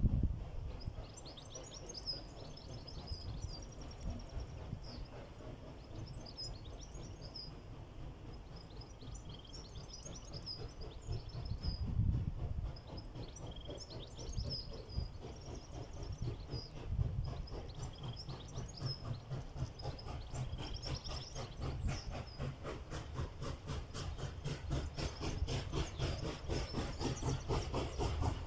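Birds singing over a low rumble, while a USA S160 2-8-0 steam locomotive's exhaust beats come in during the second half as a steady rhythm of chuffs that grows louder toward the end.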